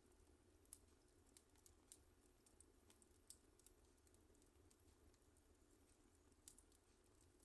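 Wood fire in a fireplace crackling faintly, with scattered sharp pops and snaps, the sharpest about a second in and again around three seconds in.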